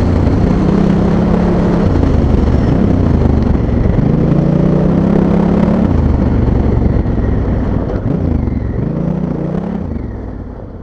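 Honda Africa Twin's parallel-twin engine, revving up and easing off in turn. It fades out near the end.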